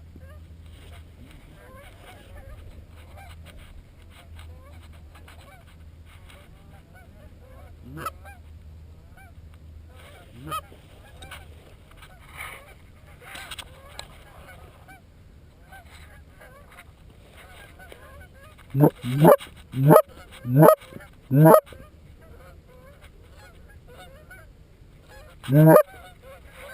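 Geese honking and clucking at a distance throughout, with a quick run of five loud close honks about two-thirds of the way through and one more near the end.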